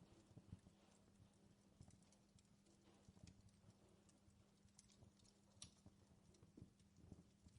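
Faint crackling of a wood fire in a fireplace: scattered small pops and snaps over a low steady hum.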